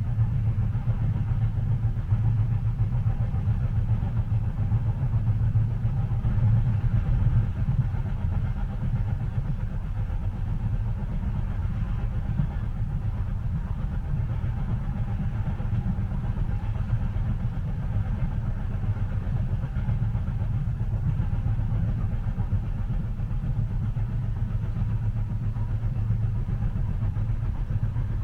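Train heard from inside a passenger cabin: a steady low rumble, even throughout, with no distinct rail clicks.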